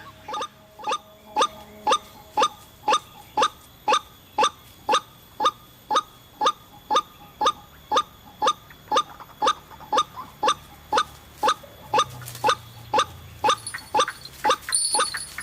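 White-breasted waterhen calling: a monotonous series of short, rising notes, about two a second, kept up at an even pace.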